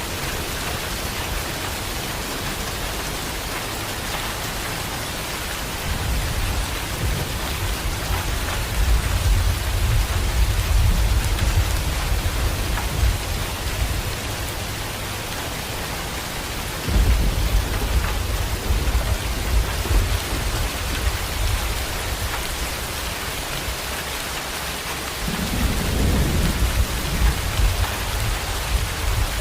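Heavy rain pouring steadily, with three long rolls of thunder: one building from about six seconds in, a second starting suddenly about seventeen seconds in, and a third near the end.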